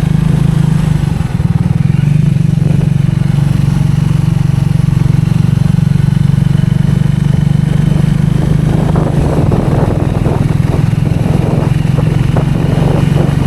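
Triumph 400 motorcycle's single-cylinder engine running at a steady pitch. About eight seconds in, irregular rattling and knocks join it.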